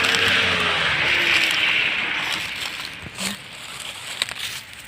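A motor vehicle passing and moving away, its engine note dropping in pitch while its noise fades over the next few seconds.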